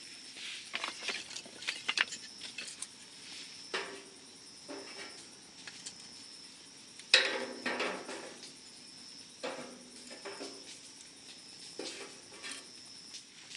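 Irregular crackles, clicks and rustles as a campfire is lit with milk-carton paper and kindling, with a sharper knock about seven seconds in. A steady high insect drone runs underneath.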